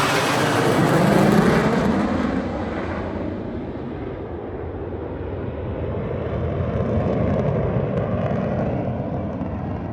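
An airplane passing overhead: its engine sound drops in pitch as it goes by, then fades to a low rumble that swells again later on.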